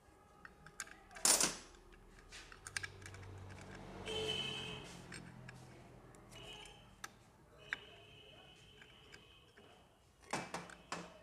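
Small metal parts and hand tools clinking and clicking while motorcycle clutch parts are being fitted, with a louder metallic clatter about a second in and again near the end. A low hum swells and fades in the middle.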